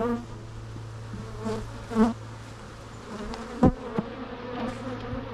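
Honeybees buzzing around a hive that has just been opened: a steady low hum, with single bees flying close past the microphone in short buzzes that rise and fall in pitch. A sharp knock comes about two-thirds of the way in.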